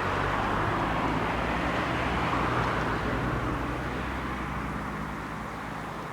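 Creek swollen by a heavy thunderstorm, its fast water rushing in a steady roar with a low rumble underneath, easing slightly after about three seconds.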